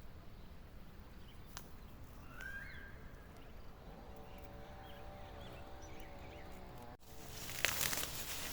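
Outdoor ambience with a low rumble and a few faint bird chirps, a steady hum in the middle, then louder rustling and crackling from about seven seconds in after an abrupt cut.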